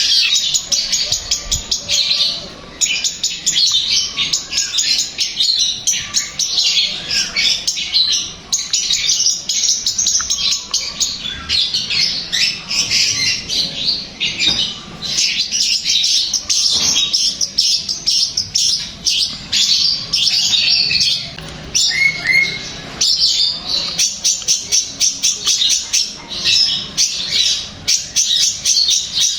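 Long-tailed shrike (cendet) singing in full voice: a fast, unbroken chatter of short high notes, with a few brief pauses.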